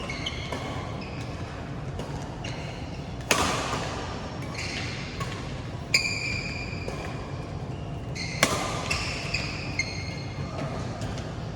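Badminton rally: rackets striking the shuttlecock in sharp cracks, three loud smash-like hits about two and a half seconds apart with lighter strokes between, and sneakers squeaking on the court floor.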